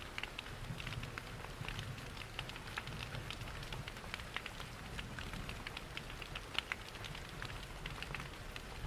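Steady rain mixed with a crackling fireplace: many small sharp pops and ticks scattered over an even hiss, with a low rush underneath.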